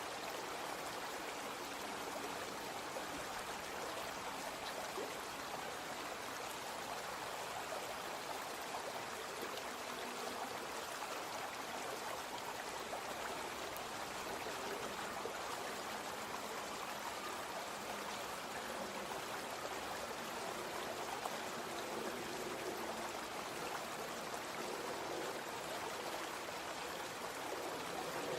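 Small brook flowing steadily, an even rush of running water.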